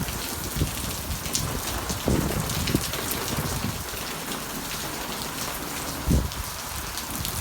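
Heavy wind-driven rain pouring down steadily and splashing onto surfaces, with scattered louder drops and dull thuds.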